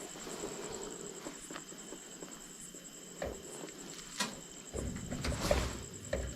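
A steady high insect trill, pulsing evenly, with a few sharp clicks and knocks; low rumbling handling noise joins in the last second and a half.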